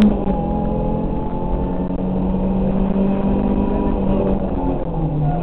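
Rally car engine heard from inside the cabin on a special stage, running hard at a steady high pitch. The revs drop sharply right at the start and fall again near the end.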